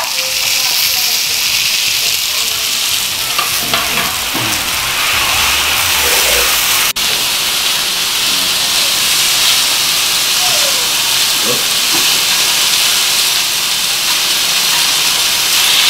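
Food sizzling in hot pans on a gas stove, a steady frying hiss.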